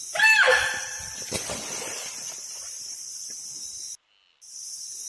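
A short animal call with an arching, falling pitch a fraction of a second in, over a steady high-pitched hiss that cuts off suddenly near the end.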